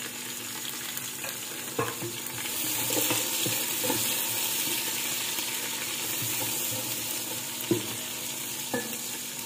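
Onions, garlic, ginger and green chillies sizzling as they fry in hot ghee in an aluminium pressure cooker, the sizzle growing louder a couple of seconds in. A few sharp clicks sound over it.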